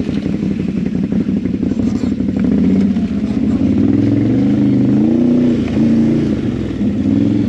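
ATV engine running under load, its revs rising and falling several times in the second half as it works over rough trail.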